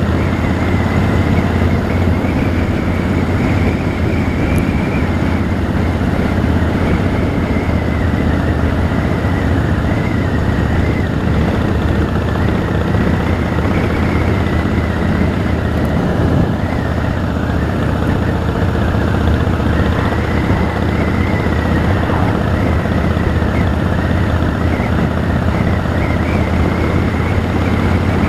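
Harley-Davidson Rocker C V-twin motorcycle running steadily at riding speed, its engine and road noise holding at a constant loud level.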